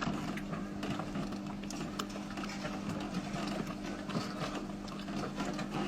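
A steady engine hum, like a vehicle or boat motor idling, with scattered light clicks and knocks over it.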